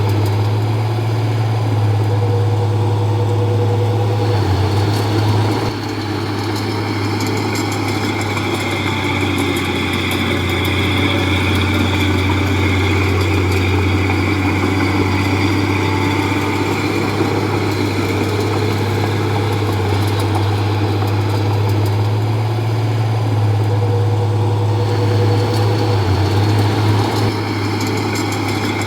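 Komatsu D31P bulldozer's diesel engine running steadily with a low drone, a higher whine joining about four seconds in and fading near the end, and the load easing slightly about six seconds in.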